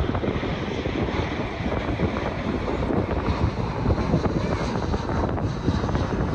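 Jet airliner's engines rumbling steadily as it comes in to land, with wind buffeting the phone's microphone.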